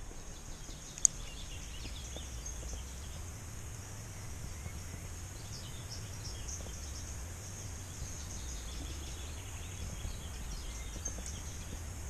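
Birds chirping in short, scattered calls over a steady low rumble, with one sharp click about a second in.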